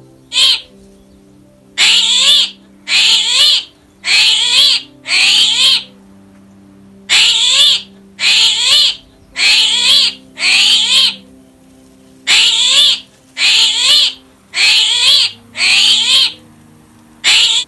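A loud, high-pitched animal call, each about two-thirds of a second long, repeated in three sets of four with short pauses between the sets. Soft background music runs underneath.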